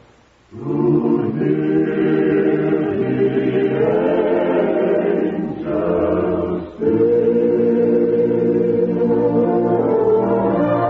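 Choir singing held chords on an old radio broadcast recording, starting about half a second in, with short breaks between phrases near six and seven seconds in.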